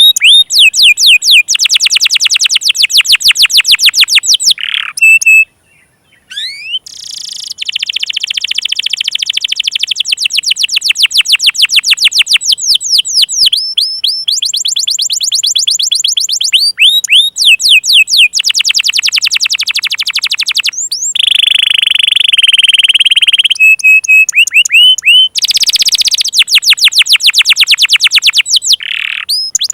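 Domestic canary singing a long song of fast trills, each a rapid run of repeated high chirps, switching to a new trill every few seconds with a brief pause about five seconds in. This is a lure song (pancingan) used to set silent canaries and young birds singing.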